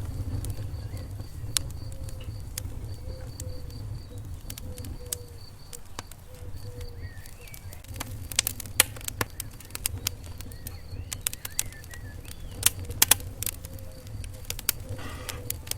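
Wood fire in a fireplace crackling: sharp irregular pops and snaps over a low steady rumble of the flames. The pops come in clusters about halfway through and again later.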